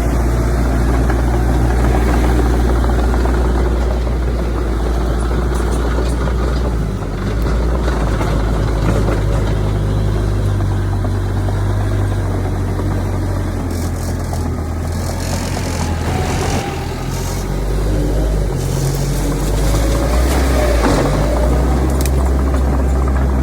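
Heavy diesel engines of earthmoving machinery, a bulldozer and dump trucks, running steadily, their pitch shifting as the load changes. A few sharp knocks come in the second half.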